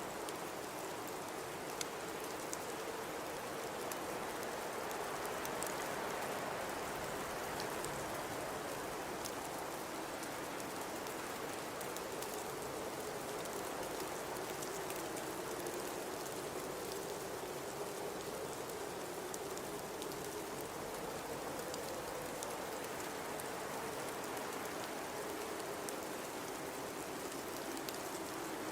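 Blizzard wind blowing steadily, with a low moaning tone that slowly wavers up and down in pitch and faint scattered ticks.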